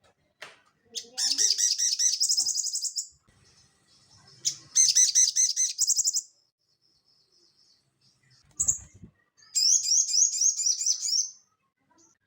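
Sogon (little spiderhunter) singing: three bursts of fast, high, chattering trills, each about two seconds long, with a short single call between the second and third.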